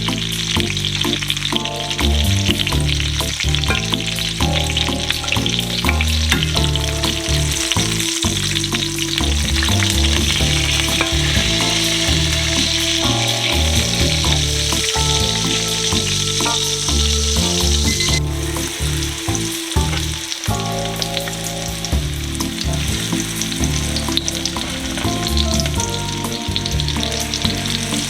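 Chicken cutlets in a salt-and-vinegar-chip coating frying in a pan of hot olive oil, with a steady, dense sizzle that drops suddenly about 18 seconds in. Background music plays underneath.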